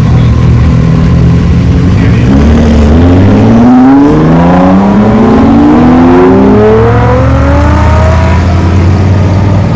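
Sports car accelerating away hard, its engine note rising in several steps as it climbs through the gears, over a steady low rumble.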